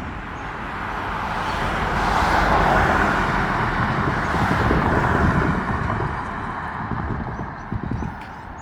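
A vehicle passing: its noise swells, peaks for a few seconds and fades away, over a low rumble with many quick knocks.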